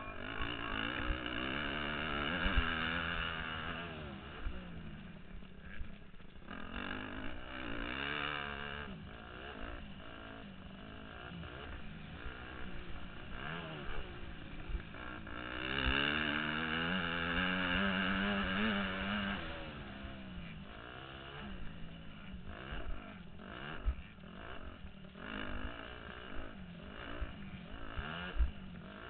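Motocross bike engine heard from the rider's helmet, revving up and down through the gears, with two longer full-throttle pulls, one near the start and one around the middle. Scattered thumps from the bike over the bumps.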